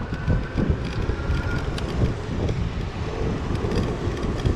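Wind on the microphone of a moving bicycle, with road and traffic noise underneath and scattered small clicks and rattles.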